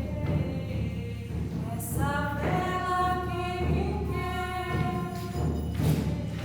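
Music: voices singing long held notes over a steady, repeating low pulse.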